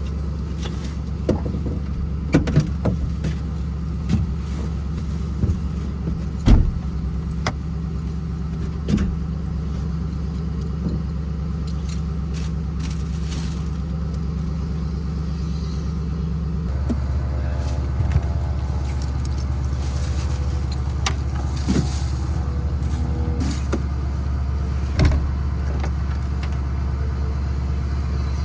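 A vehicle engine running steadily, with scattered clicks, knocks and key jangles over it. About two-thirds of the way through, the engine's drone changes in pitch.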